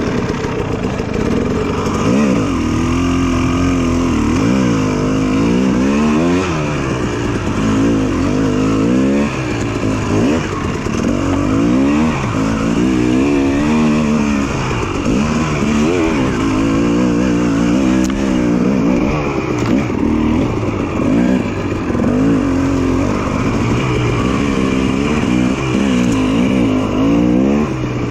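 Two-stroke dirt bike engine under way, its pitch rising and falling every second or two as the throttle is opened and shut.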